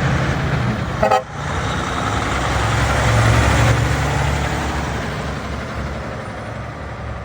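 A truck drives past with its engine running, the sound swelling and then fading away. A short horn toot comes about a second in.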